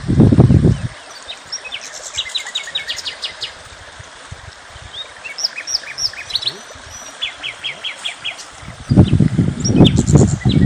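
Songbirds singing: rapid trills and series of short repeated high notes from several birds, over a steady outdoor hiss. Loud low rumbling bursts come in the first second and again from about nine seconds in.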